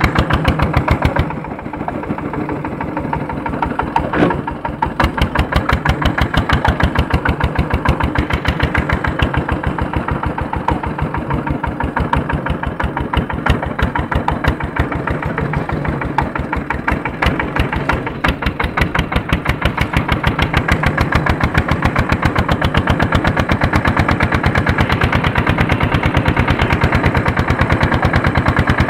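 A tractor's Andoria 1HC102 single-cylinder diesel engine runs under load while harrowing, with a steady, rapid run of firing beats. It eases off a little about a second in and picks up again in the second half.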